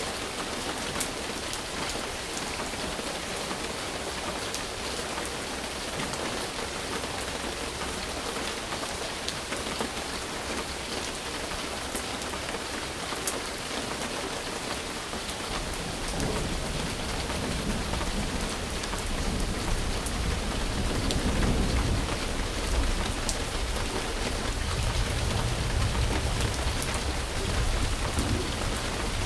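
Steady rain falling, with scattered sharp drop ticks. About halfway through, a low rumble of thunder sets in and grows louder.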